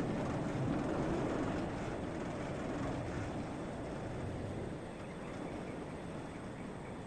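Steady rushing noise of a blacksmith's forge while a nail heats in it, easing off a little over the seconds.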